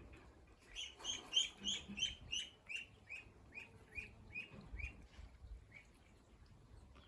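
A bird calling a run of about a dozen short chirps, each sliding down in pitch, about three a second, slowing and fading away over some four seconds.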